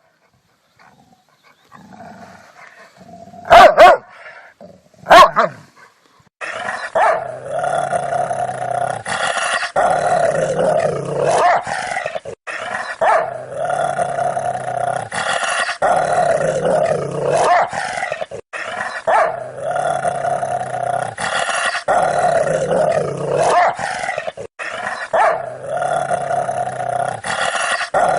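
Dog barking: a few sharp single barks, then from about six seconds in continuous, aggressive growling mixed with barks. The same few-second stretch repeats over and over.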